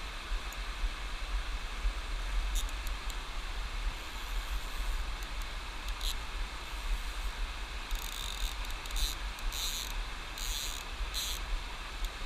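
Steady rush of a river's flowing water with low wind buffeting on the microphone, and a few short bursts of high hiss near the end.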